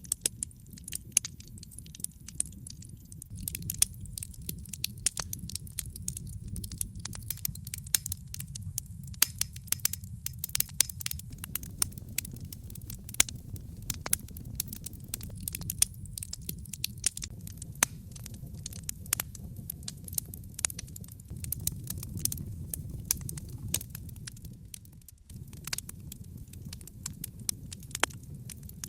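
Wood fire burning in a fireplace: logs crackling with many irregular sharp pops and snaps over a steady low rumble of the flames.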